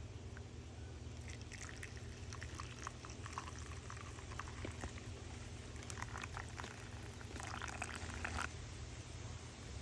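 Liquid being poured, a patter of small splashes and trickles that builds up and stops sharply near the end, over a steady low hum.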